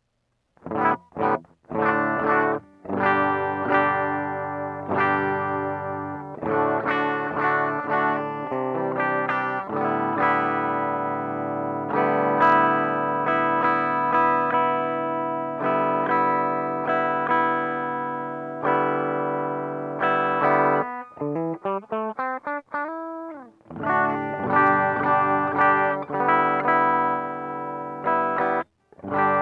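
Electric guitar played through a TC Electronic Flashback delay and looper pedal, with a somewhat distorted tone: picked notes and ringing chords. About two-thirds of the way through, a quick run of short notes slides upward in pitch.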